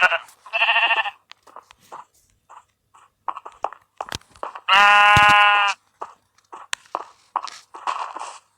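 An animal bleating: a short wavering call just under a second in, then a longer, louder call about five seconds in, with scattered crunching and clicking sounds between.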